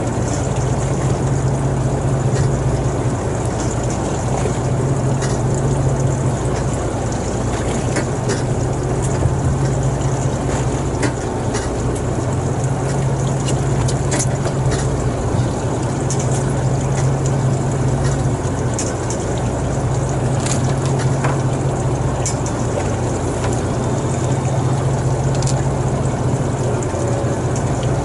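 A boat's engine running steadily, a constant low hum over the wash of water, with a few faint clicks and knocks.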